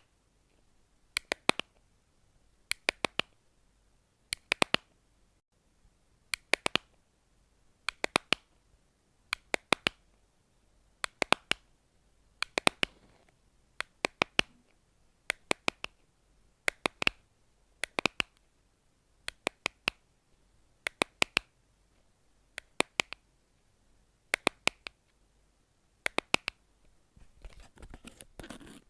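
Rhythmic tapping: quick taps in clusters of two or three, a cluster about every second and a half to two seconds. Near the end the tapping stops and a soft rustling begins.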